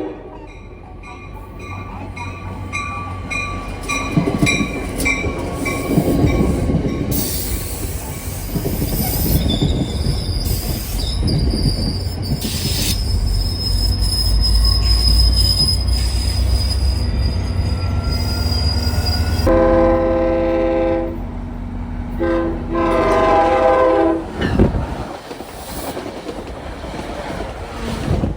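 NJ Transit train rumbling past on the rails, its wheels giving a steady high squeal for several seconds midway. Near the end, two long blasts of the train's horn.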